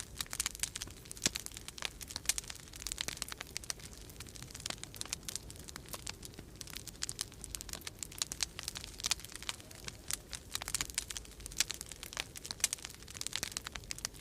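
Wood fire crackling in a fireplace: a constant run of irregular pops and snaps, some sharper than others, over a faint low rumble.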